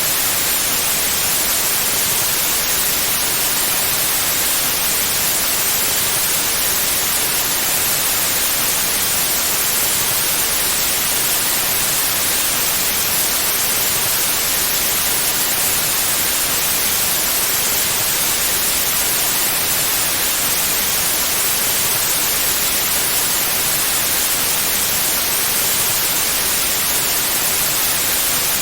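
Synthetic white noise: a steady, even hiss that does not change.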